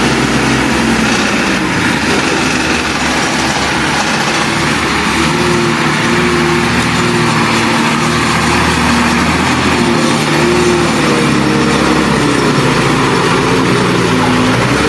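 Diesel engine of a working earthmoving machine running continuously, its pitch rising and falling as the load and throttle change.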